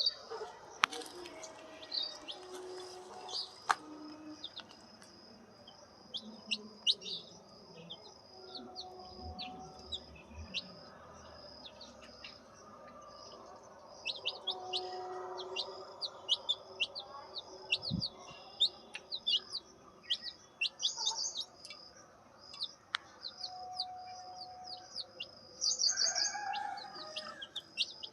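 Turkey poults peeping: a steady high chorus of peeps with many short, falling individual cheeps on top, and a few louder bursts of peeping about three-quarters of the way through.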